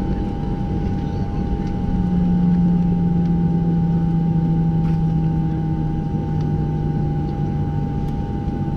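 Cabin noise inside a Boeing 737-700 taxiing after landing: a steady rumble with a pair of constant high whines. A low hum swells about two seconds in and slowly sinks in pitch.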